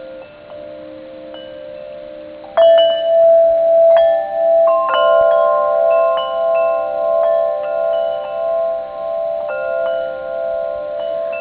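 Metal wind chimes ringing, several notes at once, with a loud fresh cluster of strikes about two and a half seconds in and a few more after; each note rings on with a slow pulsing.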